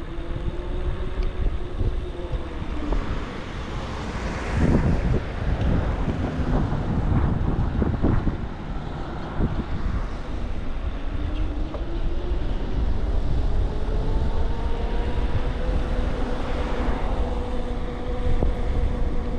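Wind buffeting the microphone with a steady motor whine that dips and then climbs slowly in pitch, typical of an e-bike's hub motor changing with road speed.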